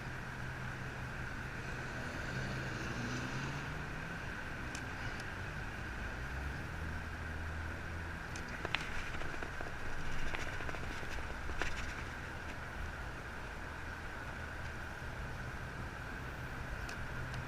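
Steady hum of street traffic, swelling slightly now and then, with a few faint clicks.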